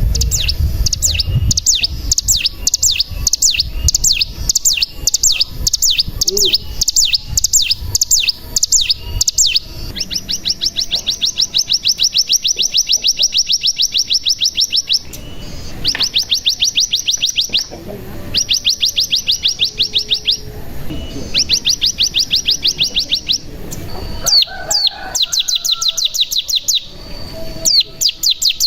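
Ciblek gunung (cigun) singing. For the first ten seconds it gives a string of sharp, high, evenly spaced notes; after that it breaks into a fast trill, the 'ngebren', in bouts of a few seconds with short pauses between them.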